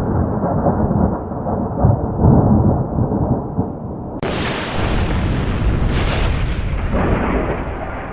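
Thunder rolling in a long low rumble. About four seconds in a sharper, crackling thunderclap breaks in, and a second burst follows about two seconds later.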